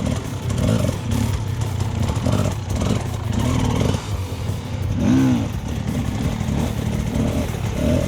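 Dirt bike engines running under changing throttle. The pitch rises and falls in short revs, about one or two a second.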